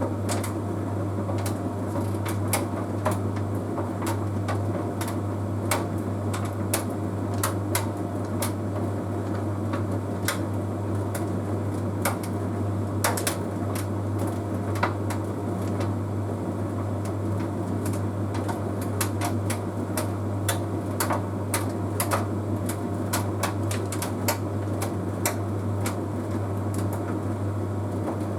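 Bosch Series 6 heat pump tumble dryer running with a steady low hum and rumble, with irregular light clicks and taps as the load tumbles in the drum.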